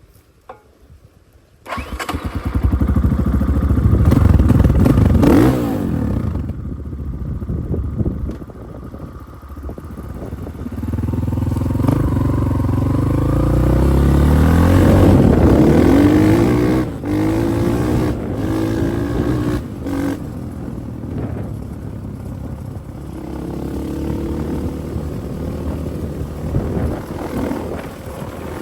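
Spark SP250P-2 motorcycle engine running and revving, its pitch rising and falling again and again; it comes in abruptly about two seconds in.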